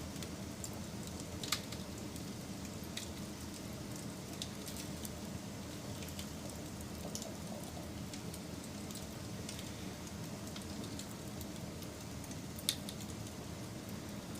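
Fire crackling: a steady low rush with scattered small snaps, and two sharper pops, one about a second and a half in and one near the end.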